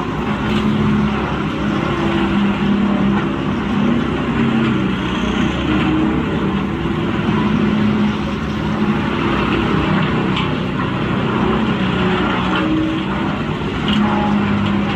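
Large industrial wood grinder running steadily under load as wood is fed through: an engine hum over the continuous noise of wood being ground up, with a few faint knocks.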